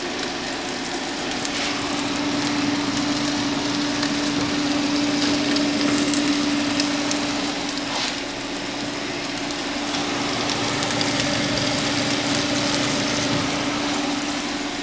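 French toast and bacon frying in buttered pans, a steady sizzle with a few faint crackles. A steady low hum runs underneath through most of it.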